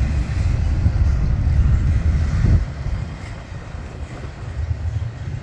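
Slow-moving double-stack container train rolling past with a low rumble that eases off about two and a half seconds in.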